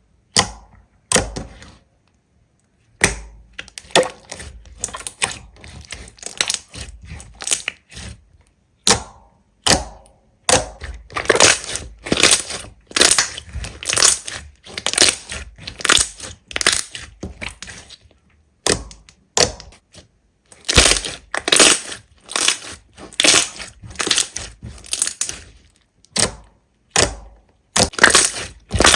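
Slime being pressed and squeezed by hand: a fast run of short crackling squishes, about one or two a second, with a short pause about two seconds in and another near the middle.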